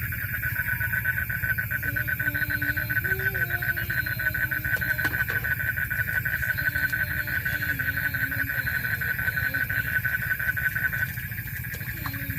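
An animal calling: a fast, buzzing pulsed trill on one high pitch that stops abruptly about eleven seconds in, over a steady low hum.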